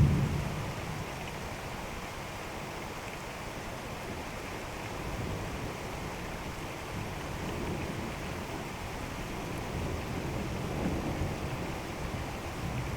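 Steady rain in a thunderstorm, with low rumbles of thunder. A loud roll of thunder dies away in the first second, and fainter rumbles swell up several times after it.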